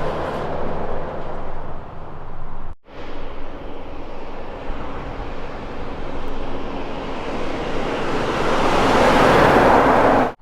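Heavy truck's diesel engine and tyres on the road, with a sudden break about a third of the way in, then growing louder near the end and cutting off sharply.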